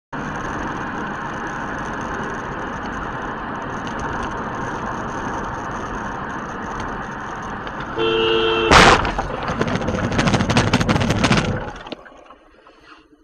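Steady road and engine noise, then about eight seconds in a car horn blares briefly and is cut short by a loud collision impact, followed by a few seconds of crunching and scraping before the sound dies away.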